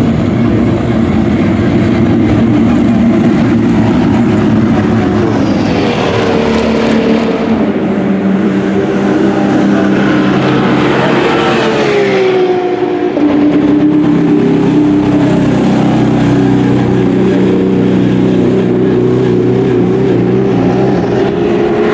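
GT race car engines running hard as cars pass on the circuit. The engine note swells past a couple of times and falls in pitch about twelve seconds in, as a car brakes or shifts down.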